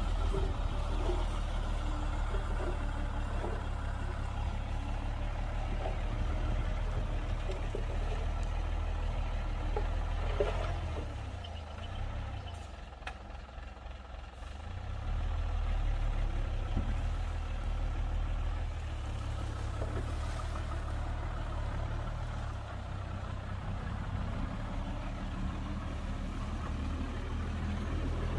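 Heavy diesel engine of earthmoving machinery running with a steady low hum. The hum eases off for a few seconds just before the middle, then comes back up, with a few knocks in between.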